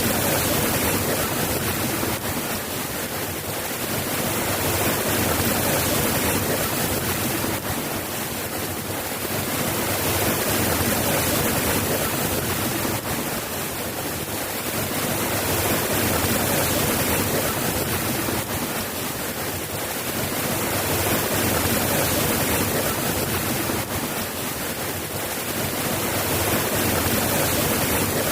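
Steady rainfall, a dense even hiss that swells and eases about every five seconds.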